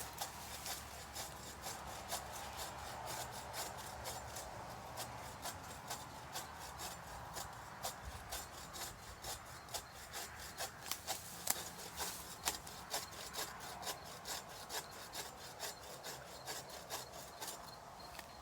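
A hand saw cutting through wood in a steady back-and-forth rhythm of rasping strokes.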